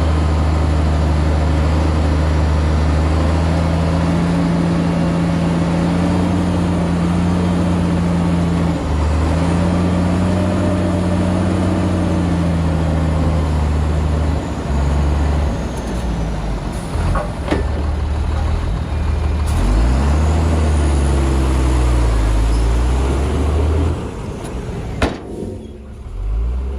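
Heavy diesel engine of earthmoving machinery working under load, its pitch dropping and rising again several times. A few sharp knocks come in the second half, and the engine eases off near the end.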